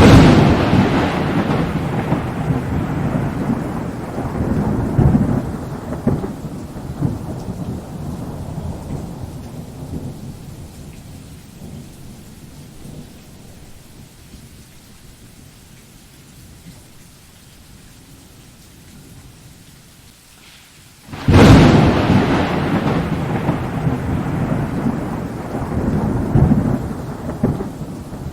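Thunderstorm: a loud thunderclap that rumbles and fades over about ten seconds, steady rain hissing underneath, then a second sudden crack of thunder about two-thirds of the way through, rolling on to the end.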